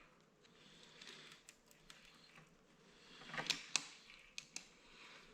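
Small metal parts of a tractor hydraulic pump being handled during reassembly: faint handling noise with a few sharp metallic clicks clustered about three and a half seconds in.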